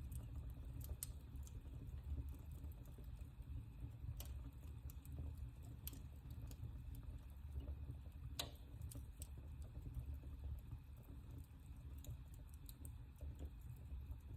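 Wood fire burning in a fireplace: scattered small crackles and pops over a steady low rumble of the flames, with one sharper pop a little past halfway.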